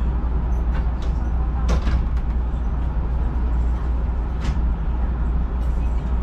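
Steady low rumble inside a Hakone Tozan Railway electric train car, with a few brief sharp hisses or clicks from the train's equipment about two seconds in, about halfway through and near the end.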